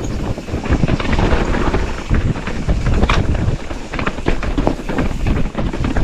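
Wind buffeting the microphone of a mountain bike on the move, with a steady low rumble and many short rattles and knocks from the bike over rough ground.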